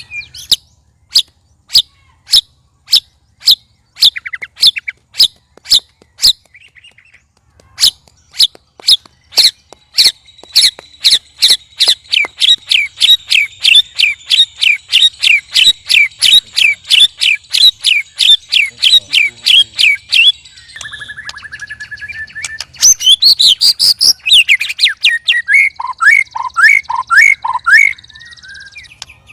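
White-rumped shamas (murai batu) provoked against one another, giving loud, unusual calls: sharp chip notes about two a second, then a long fast run of repeated downslurred notes, a held whistle, and varied song phrases near the end.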